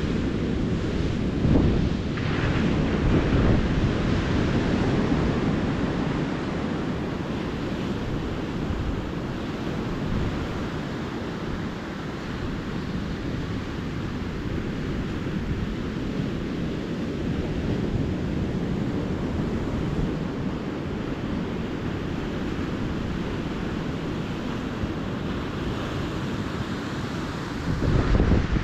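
Small ocean waves washing onto a beach, a steady surf wash with wind rumbling on the microphone. The surge is louder a couple of seconds in and again just before the end.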